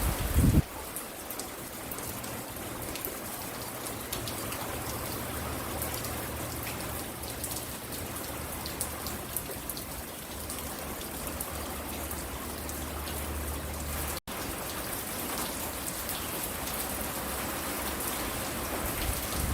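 Steady rain falling, with individual drops heard hitting close by. A loud low thump sounds about half a second in, and the sound cuts out for an instant about two-thirds of the way through.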